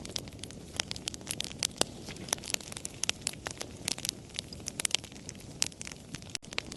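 Wood fire crackling: irregular sharp pops and snaps, several a second, over a low steady rush of burning. The sound cuts out for an instant near the end.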